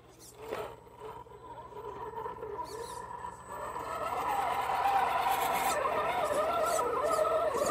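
Radio-controlled rock crawler's Novak 55-turn brushed electric motor and gear drivetrain whining under throttle, its pitch wavering as it crawls over obstacles; it grows louder from about three seconds in. A short knock about half a second in.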